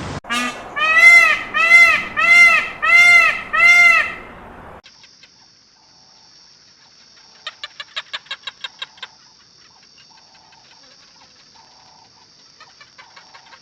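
A gull calling six times in quick succession, each loud call rising and then falling in pitch. After an abrupt cut a faint steady high hiss follows, with a quick run of faint ticks partway through.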